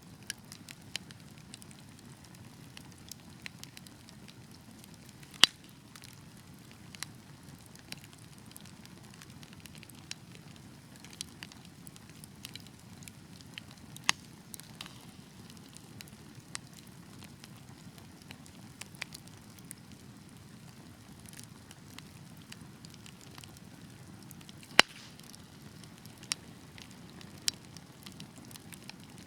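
Wood fire burning: a steady low rush of flames with scattered sharp crackles and pops. Two pops, about five seconds in and near the end, are louder than the rest.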